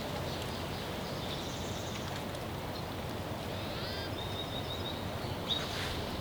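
Wild birds calling over a steady outdoor hiss: a few short calls and a brief high trill about four seconds in, with a quick rising-and-falling call near the end.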